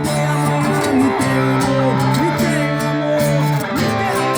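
Guitar playing: a plucked melody with notes bending in pitch over sustained low notes.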